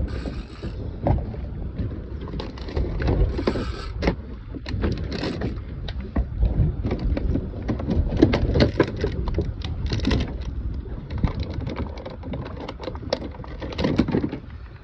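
Boat noise at sea: a steady low rumble with wind and water, broken by many irregular knocks and clatters of gear being handled on deck.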